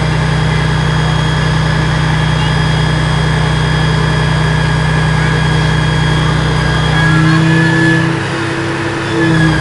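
Diesel engine of a Scania aerial ladder platform fire engine running steadily. About seven seconds in, its note changes: the low rumble thins out, a higher tone comes in and it briefly gets louder, as if the revs are raised.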